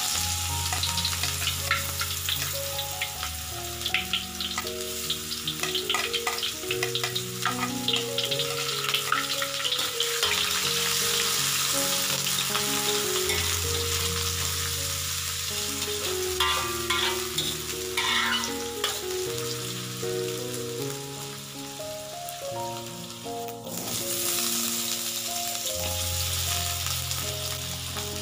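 Chopped ginger, lemongrass, shallots and garlic sizzling in hot oil in a steel wok, stirred with a spatula that scrapes and clicks against the pan. Soft background music plays underneath.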